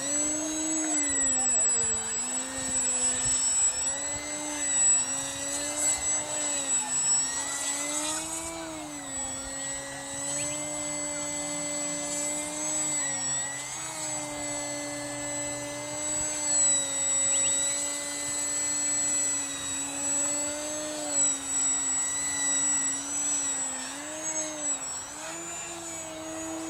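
Radio-controlled model aeroplane engine running in flight. Its pitch rises and falls repeatedly as the plane manoeuvres and passes. A faint steady high whistle runs underneath.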